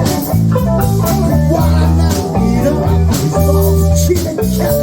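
Live band music: guitar over bass guitar and drums, an instrumental passage without vocals.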